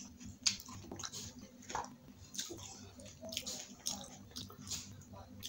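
Close-miked eating of pani puri: irregular crunches and crackles of the crisp, hollow fried shells being chewed, the sharpest about half a second in.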